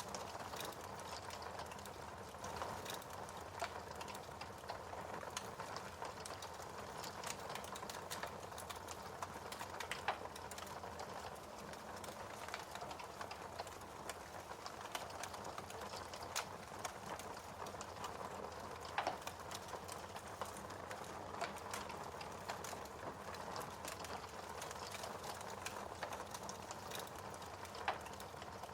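Wood fire burning in a fireplace: a steady soft hiss with constant small crackles and a few louder pops.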